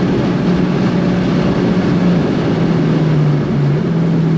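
Engine of a modified, big-turbo Ford Fiesta ST running at fairly steady revs over road and wind noise, stepping down in pitch about two seconds in.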